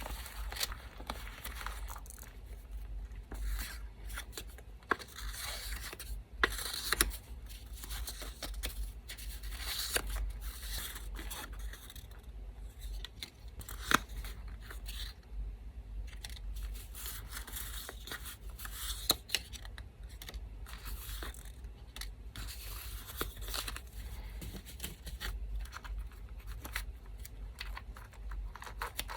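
Scrapbooking paper work: small pieces of paper being cut with scissors, torn and handled in irregular rustles, with scattered sharp clicks. A steady low electric-fan hum sits underneath.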